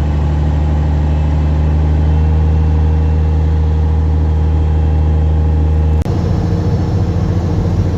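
Semi truck's diesel engine heard from inside the cab, a steady low drone as the loaded truck pulls away; the engine note changes abruptly about six seconds in.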